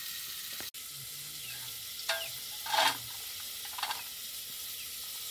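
Steady sizzling of onions and tomatoes frying in oil in a metal pot, broken by a short gap about a second in. Then come three louder crinkling rustles over the hiss as small dried fish are tipped from a plastic bag into a metal pot.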